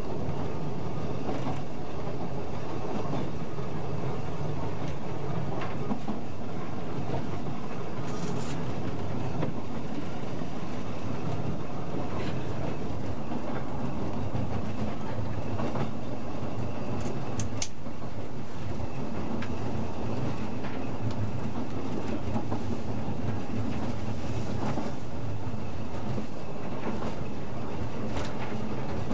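Narrow-gauge train running along the line, heard from inside the cab: a steady rumble with sharp clicks every few seconds as the wheels pass over the rail joints.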